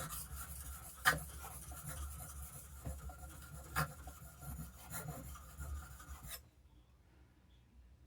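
Steel block-plane blade being honed on a soft Arkansas whetstone, a steady scraping stroke with a few sharp clicks, stopping about six seconds in.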